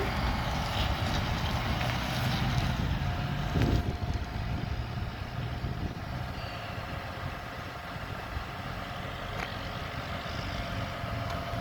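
John Deere 7200R tractor's six-cylinder diesel engine idling steadily, with a faint steady whine that joins about three seconds in.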